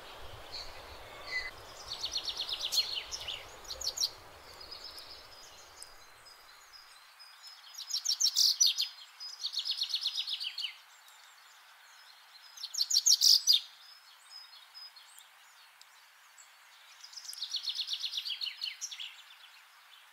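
A small bird singing a series of high, fast trills, each about a second long and repeated every few seconds, the loudest about eight and thirteen seconds in. A low background rumble stops about six seconds in.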